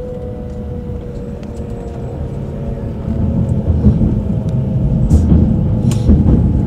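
Tohoku Shinkansen train running at speed, heard from inside the passenger cabin: a steady low rumble with a faint steady hum above it, growing louder about three seconds in.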